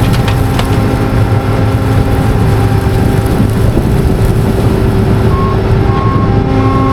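Combine harvester running steadily with a constant low engine hum. About five seconds in, a short beep starts repeating.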